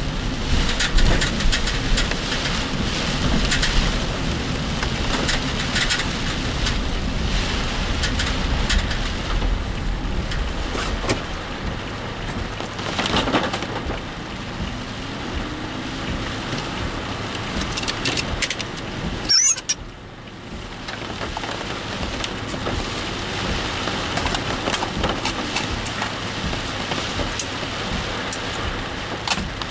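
Heavy typhoon rain drumming on a moving car, with wet-road tyre hiss, heard from inside the cabin. A brief high squeak comes a little past halfway, followed by a short drop in the noise.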